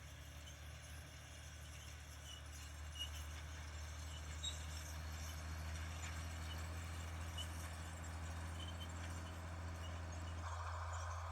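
Fiat 980 DT tractor's diesel engine running steadily with a low hum that slowly grows louder, with faint scattered clicks over it. A higher hiss joins near the end.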